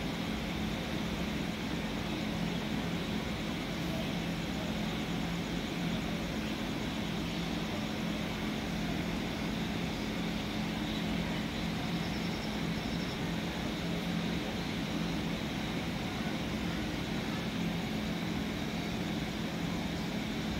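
Steady mechanical hum of a passenger train standing still on the track, with a constant low drone and no change in level.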